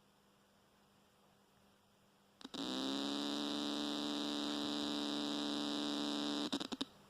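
Newly built JTM45-clone valve guitar amp with no cable plugged in, giving out a loud, steady electrical buzz. The buzz cuts in suddenly about two and a half seconds in, holds steady, then stutters and drops out about four seconds later. It is a fault of unknown cause in the new build.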